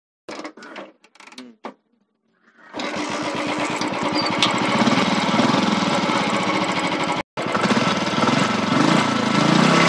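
Royal Enfield Classic 350 BS6's air-cooled single-cylinder engine and exhaust running steadily with an even pulsing beat, coming in about three seconds in after a few faint clicks and breaking off for a moment past the middle.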